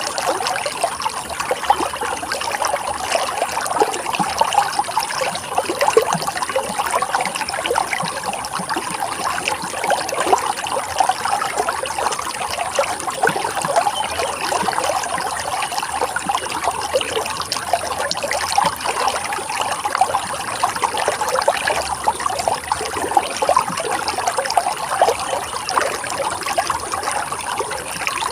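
Steady running water, trickling and babbling with a dense patter of small splashes.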